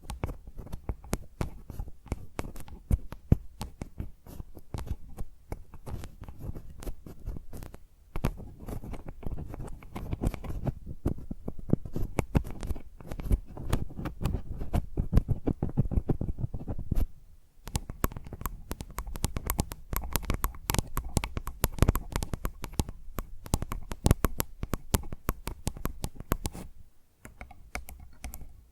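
Fingernails tapping and scratching rapidly on a microphone, a dense stream of close clicks with low thuds from the mic body. The tapping pauses briefly about 8, 17 and 27 seconds in.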